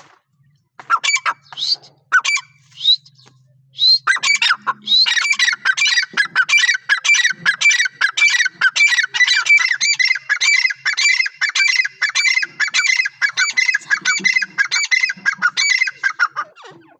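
A bird calling loudly: a few separate calls, then from about four seconds in a long, rapid run of repeated squawking calls that stops shortly before the end.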